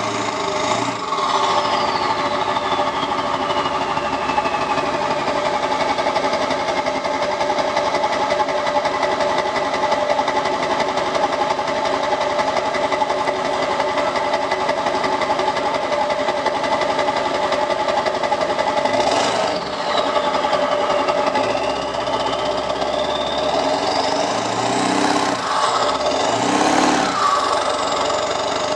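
Straight-piped 7.3 L Powerstroke V8 turbo-diesel idling with a steady diesel clatter. The turbo whistle rises and then slowly falls in pitch about a second in and again at about nineteen seconds. Near the end a few quick revs push the whine up again.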